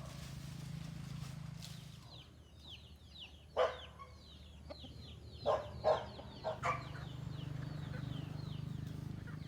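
Chickens: a rapid run of high, falling chick peeps, broken in the middle by several louder clucks. A low steady hum runs underneath.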